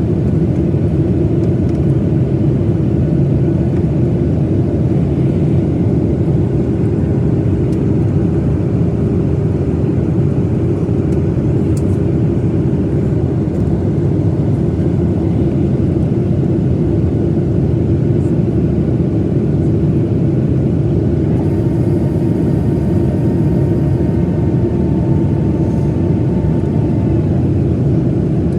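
Steady cabin noise of a Boeing 737-900ER in flight: the continuous rumble of the engines and airflow with a low steady hum. A faint higher whine joins about three quarters of the way through.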